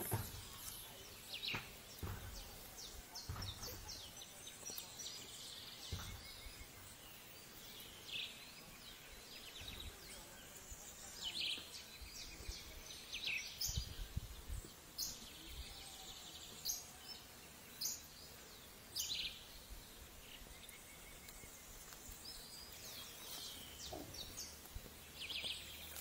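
Faint, scattered high-pitched bird chirps and short calls at irregular intervals over quiet natural background noise.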